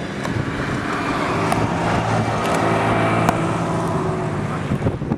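A motor vehicle's engine running close by, growing louder toward the middle and easing off near the end, like a car passing on the road.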